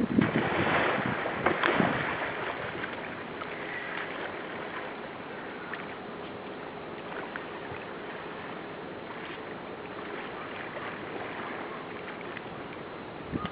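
Wind on the microphone and water around a kayak: a loud gusty rush for the first couple of seconds, then a steady soft hiss with occasional small ticks.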